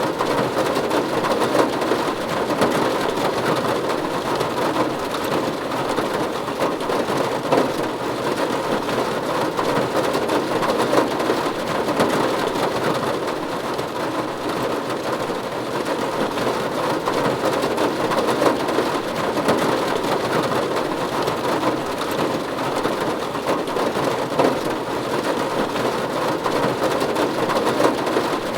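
Steady rain pattering on a roof, a dense, even patter with many small drop hits.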